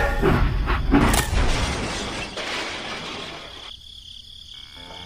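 A loud crash of something breaking, with several sharp impacts close together in the first second and a half, then dying away.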